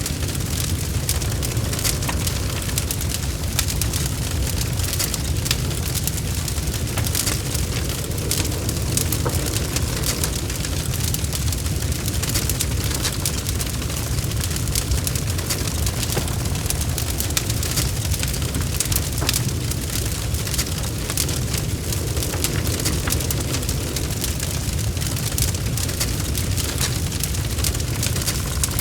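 Wood fire of burning logs crackling, with frequent sharp little pops and snaps over a steady low rumble of the flames.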